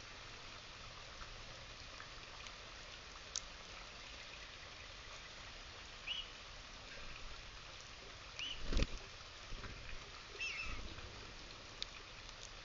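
Steady light rain pattering, with a few short chirping bird calls about six, nine and ten seconds in. A dull thump near nine seconds is the loudest moment, and a couple of sharp ticks stand out.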